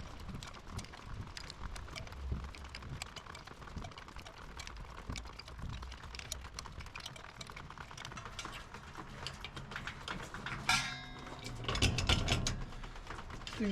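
Hand tools working on a go-kart's metal frame: rapid light clicking and tapping, with a metal part clanking and ringing about eleven seconds in and a louder clatter near the end.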